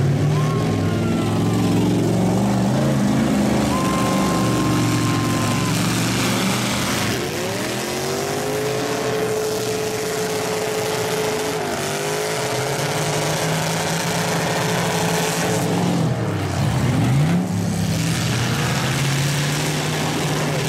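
Demolition-derby pickup truck engines running and revving. One climbs in pitch, is held high for several seconds, drops sharply and climbs again as the trucks push and back up against each other.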